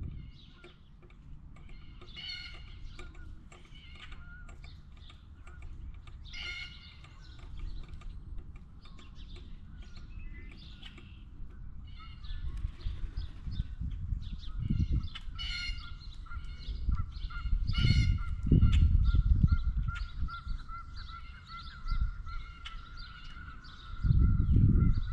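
Blue jays calling over and over in short, repeated calls. Several low rumbling bursts come through as well, the loudest about two-thirds of the way in and near the end.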